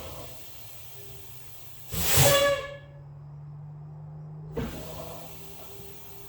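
Short hisses of compressed air from a 1995 Blue Bird Wanderlodge bus's air brake system, two of them about two and a half seconds apart, the first the louder, over the low steady hum of the idling diesel engine.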